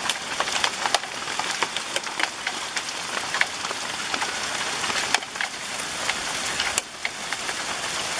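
Hailstorm: a steady hiss of falling hail and rain, with many sharp clicks of individual hailstones striking.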